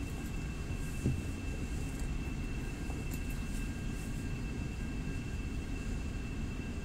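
Steady rumble of a moving passenger train heard from inside the carriage, with a thin steady high-pitched tone running over it. One short knock about a second in.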